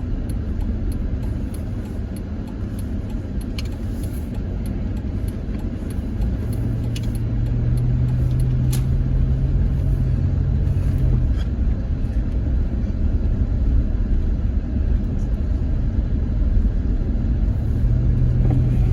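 Van driving, heard from inside the cabin: a steady low rumble of engine and road noise, with a deeper drone joining about six seconds in for several seconds and again near the end. A few faint sharp ticks are scattered through it.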